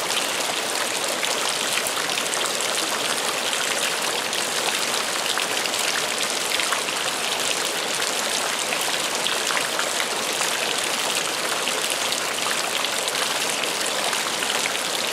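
Steady rain falling, an even hiss with small ticks of individual drops scattered through it.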